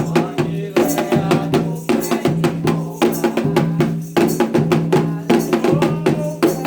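Candomblé ritual music: drums struck in a fast, steady rhythm with a bell or wood-block pattern on top, and voices singing over it.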